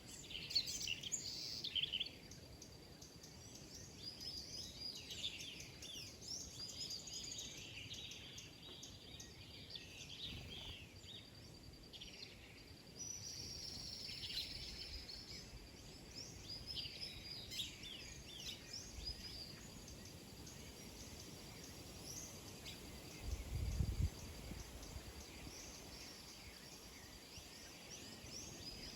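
Many small birds chirping and twittering in overlapping short calls, over a thin, steady, high-pitched tone. A single low, dull bump comes late on.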